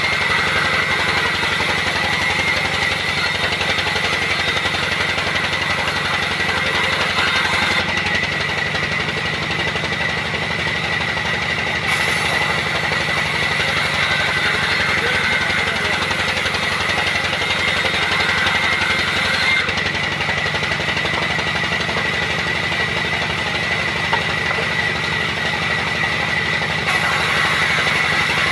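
Sawmill machinery running steadily: an engine-like rapid low rumble under a steady high whine.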